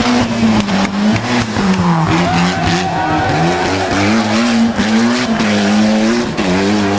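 Rally car engine revving hard, its pitch climbing and then dropping back several times as it changes gear.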